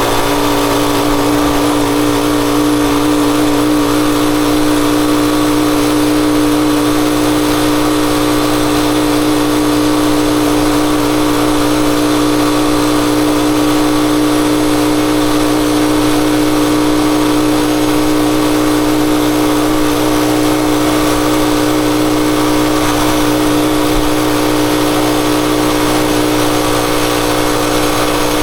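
Rusi Chariot 175 motorcycle engine running at a steady speed, its note holding one pitch with no revving up or down, over a steady hiss.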